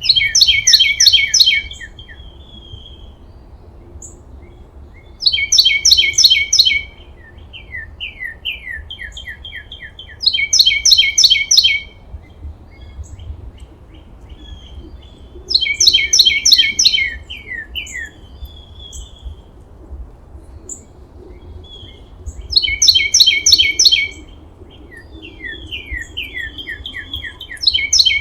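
A songbird singing. Loud phrases of quick repeated notes, each about a second and a half long, come every five to seven seconds, with softer trills of falling notes between them.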